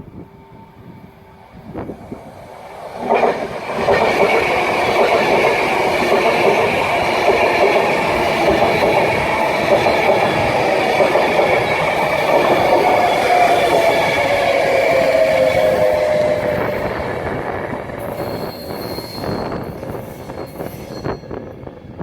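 A train passing on the railway line, loud from about three seconds in with wheel and rail noise, a tone sliding down in pitch in the middle, then fading away near the end.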